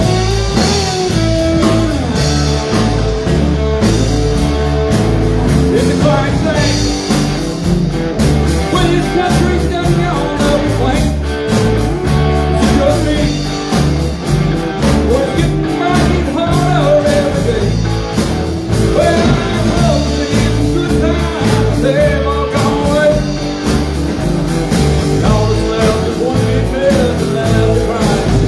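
Live rock band playing a song: drum kit, bass and electric guitar, with a steady beat.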